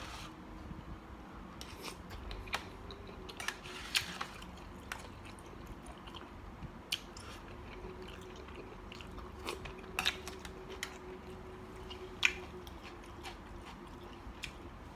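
A person chewing and biting into spicy mixed seafood salad (squid and shrimp), with scattered short crunches and clicks of eating throughout.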